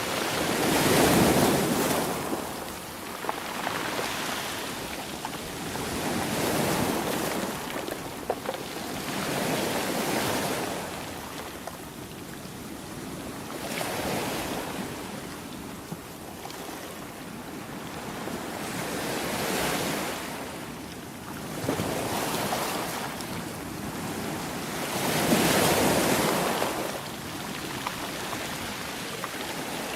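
Ocean waves breaking and washing on a shore, each swell rising and falling away every few seconds, with the biggest breakers about a second in and again around the middle and near the end.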